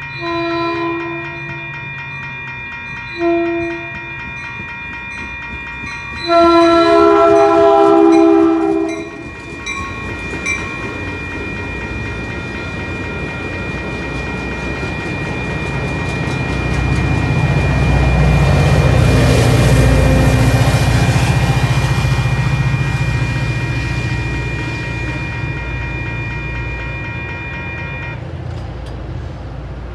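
Railroad crossing warning bells ring steadily while an approaching Caltrain sounds its horn: a blast of about a second, a short one, then a long blast of nearly three seconds, the loudest sound. The commuter train then passes through the crossing; the rumble of its wheels on the rails builds to a peak in the middle and fades, and the bells stop shortly before the end.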